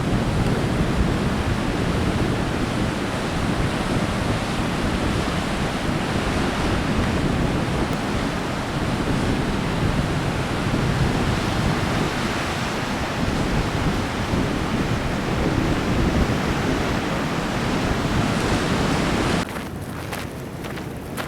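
Heavy sea surf crashing steadily, mixed with wind buffeting the microphone; the sound cuts off abruptly near the end.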